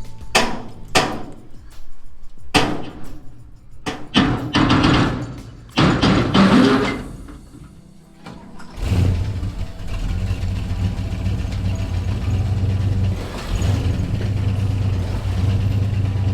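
A few sharp knocks and clanks, then about nine seconds in a vehicle engine starts and runs steadily at idle.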